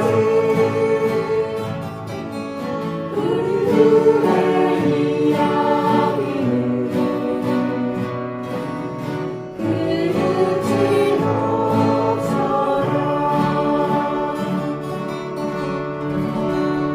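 A group of amateur voices singing together in unison over strummed acoustic guitars, in long held phrases, with a new phrase starting loudly about ten seconds in.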